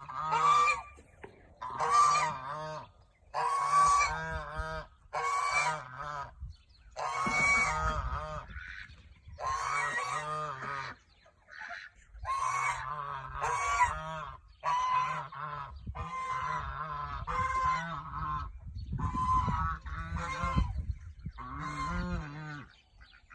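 Domestic geese honking over and over, about fifteen calls with short gaps between, roughly one every second or so.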